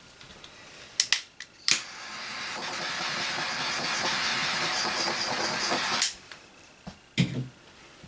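A few sharp clicks, then a steady hiss of escaping pressurised gas lasting about four seconds, cut off with a click, followed by a knock near the end.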